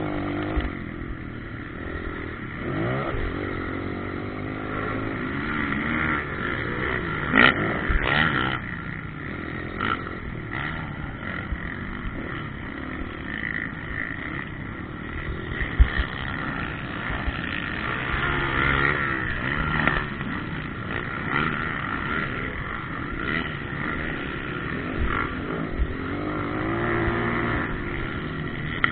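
Motocross dirt bikes riding the track, engine pitch rising and falling over and over as they rev and back off, with more than one bike heard at once at times. A few brief sharp cracks stand out, one about seven seconds in and one near the middle.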